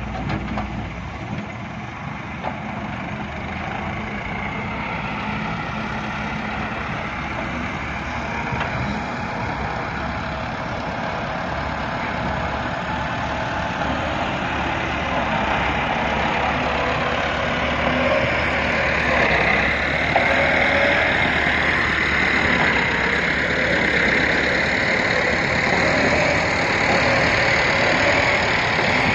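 Heavy diesel machinery running continuously, its sound gradually getting louder.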